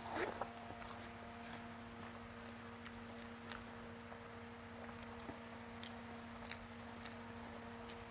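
Close-up chewing and wet mouth clicks of someone eating rice and fish curry by hand, with a louder mouthful about a quarter second in, over a steady low hum.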